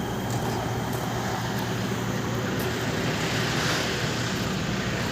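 Volvo truck's diesel engine running steadily with a low, even hum, with a swell of hissing noise about three and a half seconds in.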